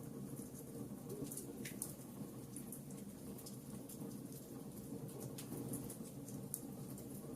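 Campfire burning: a steady low rush of flames with irregular sharp crackles and pops from the burning wood, several a second.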